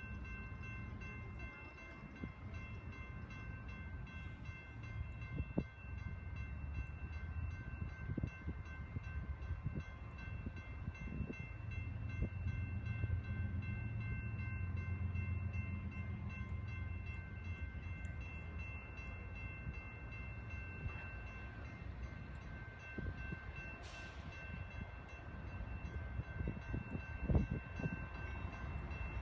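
Approaching diesel freight train, its locomotives giving a low rumble that swells and eases as it draws nearer, under several steady high ringing tones from the grade-crossing warning.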